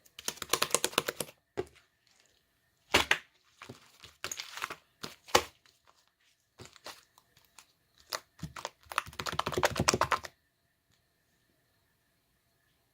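Clay slime being squeezed and kneaded by hand, giving off dense runs of rapid little clicks and crackles in three spells.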